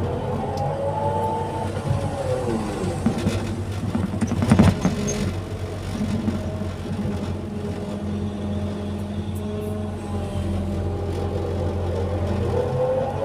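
Excavator's diesel engine running under load, with a hydraulic whine that rises and falls as the machine works, and a louder clatter about four to five seconds in.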